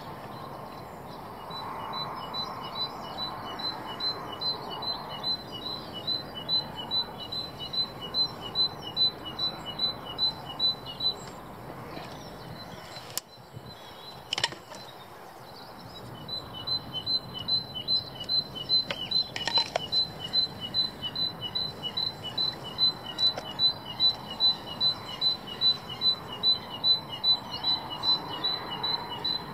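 A small songbird singing a rapid two-note phrase, a high note then a lower one, repeated over and over. It breaks off for a few seconds in the middle, where a sharp click and some handling noise come through, then starts up again.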